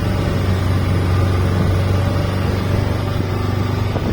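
Motorboat engine running steadily with a constant low hum.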